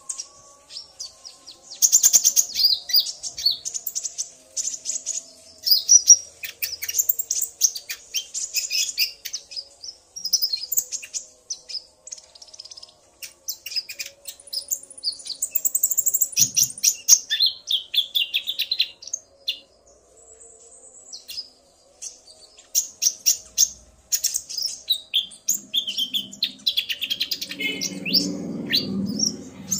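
Konin (kolibri ninja) sunbirds singing: a male's rapid, high chirping trills answered by a female, in quick runs of notes with a short pause midway. A low rumble joins near the end.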